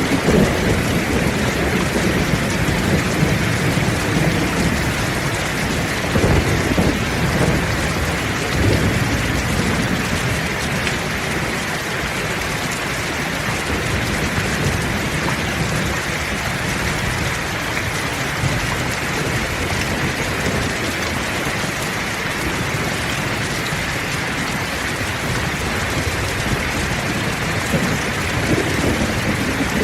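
Heavy rain falling steadily in a continuous hiss of drops, with low rolling thunder rumbling in the first several seconds and again near the end.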